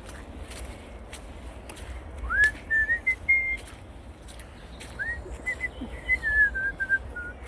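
A person whistling two short phrases of a tune in clear single notes. The first opens with an upward slide, and the second steps down in pitch near the end.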